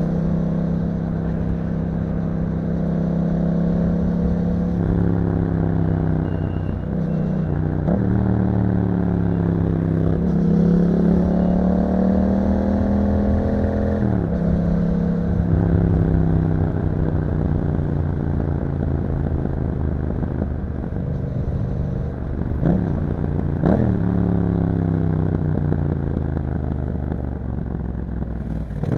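Yamaha MT-07's 689 cc parallel-twin engine running through an Akrapovic exhaust on the move. The revs climb and drop through gear changes, then give two short sharp blips a little over a second apart before winding down slowly.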